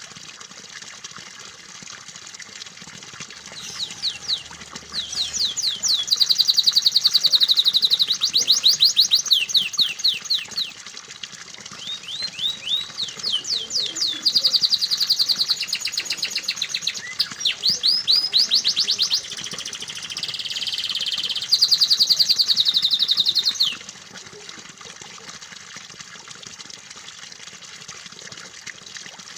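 Canary singing a long, loud song of rapid trills and fast repeated rising notes, with a lower buzzy phrase near the end. It starts a few seconds in and stops abruptly about 24 seconds in. Under it runs a steady sound of flowing water.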